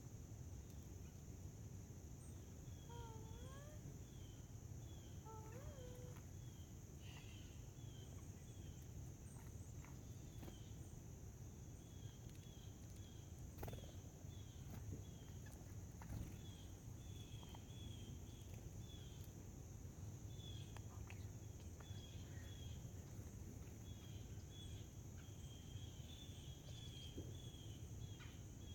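Small wild birds chirping faintly, with short high chirps repeating all through and a few rising call notes in the first few seconds. A steady high-pitched hum and a low rumble run underneath.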